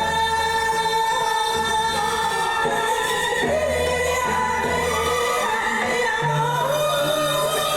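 Live song with a singer over band accompaniment: held notes and a wavering vocal line above a pulsing bass.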